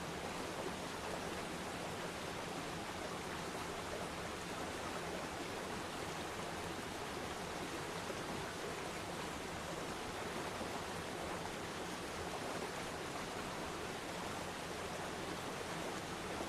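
Waterfall with its water falling and splashing in a steady, even rush, with no other sounds standing out.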